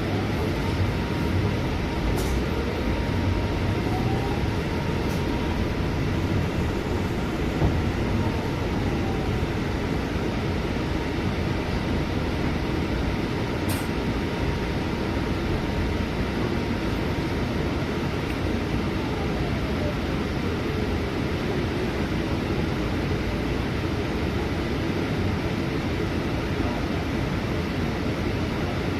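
Scania C250EB bus heard from inside while driving, a steady rumble of engine and road noise. A thin drivetrain whine rises in pitch over the first several seconds as the bus gathers speed, holds, then falls about two-thirds through as it slows.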